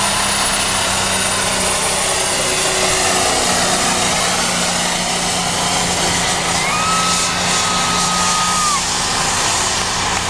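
Diesel semi truck engine running flat out while pulling the sled, with a steady high whine that climbs at the start and then holds. A shorter whistle-like tone sounds in the middle.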